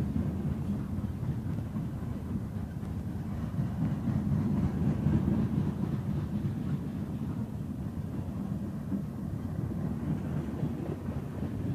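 Freight train cars rolling past on the track: a steady low rumble of steel wheels on rail.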